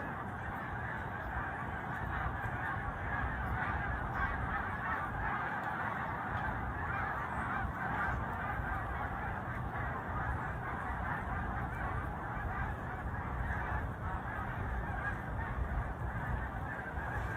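A large flock of birds calling all at once: a dense, continuous din of many overlapping calls.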